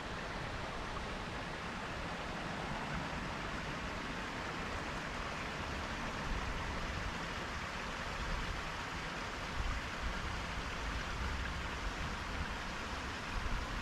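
A creek flowing, a steady rushing of water with some low rumbling now and then.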